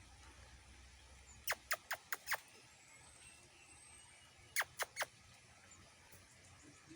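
Small monkeys giving high-pitched squeaky calls. There is a quick run of five sharp, falling notes, then three more about three seconds later.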